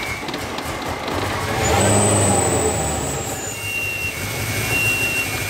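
Mercedes-AMG M156 6.2-litre V8 with a prototype supercharger running on its first start. It swells in revs from about a second in to about three seconds, then settles, with a high, siren-like whine over it.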